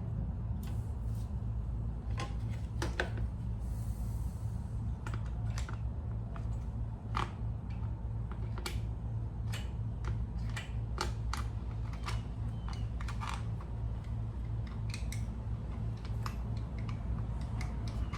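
Irregular light clicks and taps of small parts being handled and fitted while reassembling a pressure washer's carburetor and air intake, over a steady low hum.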